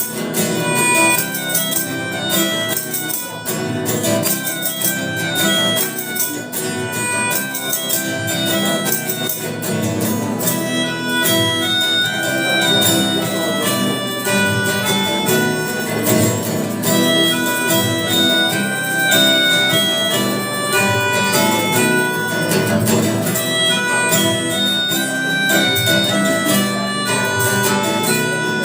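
A rock band playing an instrumental passage: guitars with a harmonica and a fiddle over a steady drum beat.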